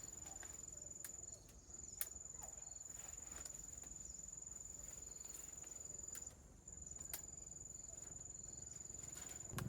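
An insect's high-pitched steady trill, which breaks off briefly twice, with a few faint clicks.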